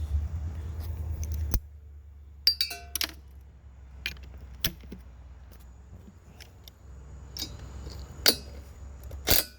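Metal clinks and clatter of hand tools and small engine parts being handled as a small mower engine is taken apart. Some strikes ring briefly. A low hum stops about a second and a half in.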